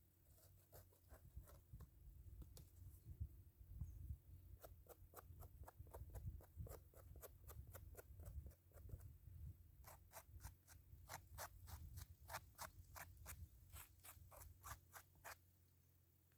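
Faint series of short clicks or scraping strokes, irregular at first, then a steady run of about three a second through the second half, over a low rumble.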